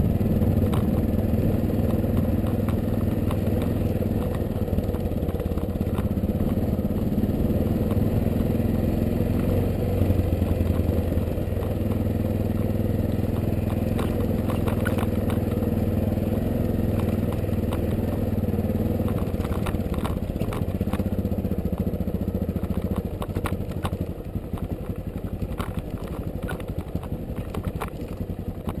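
Yamaha Ténéré motorcycle engine running steadily at low speed over a rough dirt and rock track. Scattered clatters and knocks come through the middle, and the engine quietens from a little before the end as the bike slows.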